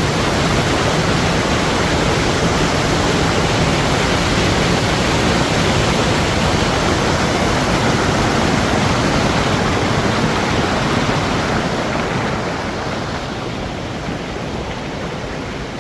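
Rushing river water: a loud, steady roar that eases off somewhat over the last few seconds.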